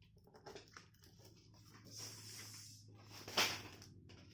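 Rustling, scratching and small clicks from a live-bird shipping box being handled and opened, with a hissing scrape about two seconds in and one sharp knock about three and a half seconds in.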